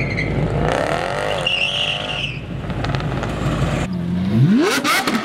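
Car engines accelerating hard, their pitch rising, in short clips spliced together, with a brief high squeal about two seconds in.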